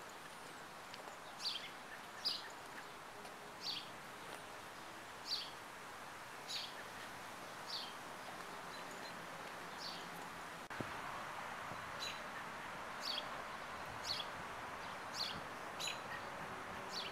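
A bird calling with short, sharp chirps repeated every second or so, over a steady background hiss.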